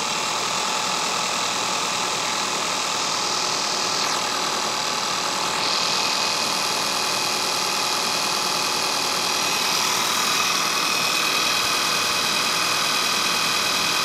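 Volkswagen Polo 1.2-litre turbocharged four-cylinder TSI petrol engine idling steadily, with no revving.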